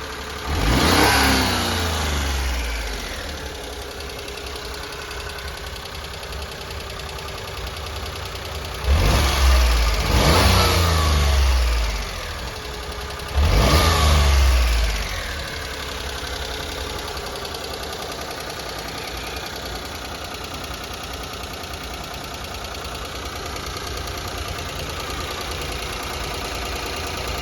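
1995 Daihatsu Atrai Liberno Turbo's small three-cylinder turbo engine idling and blipped up in quick revs: once near the start, a double rev about nine seconds in, and once more a few seconds later, each dropping straight back. After that it settles to a steady idle.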